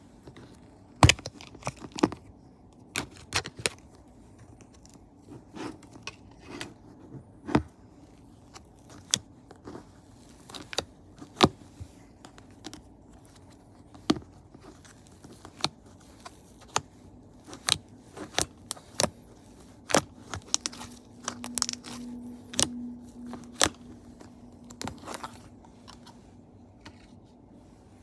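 Slime being squeezed and poked by hand, giving sharp irregular clicks and pops, about one a second.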